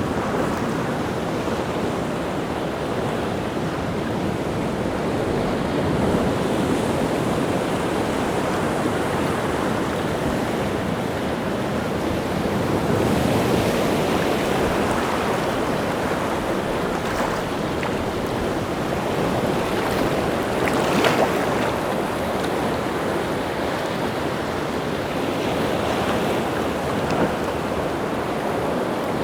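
Rough sea surf: waves breaking and washing ashore in a continuous, swelling roar, with wind on the air. One surge swells louder about halfway through.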